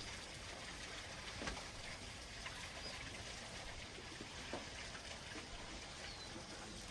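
Faint outdoor background with a few soft taps and a couple of faint, short, high chirps.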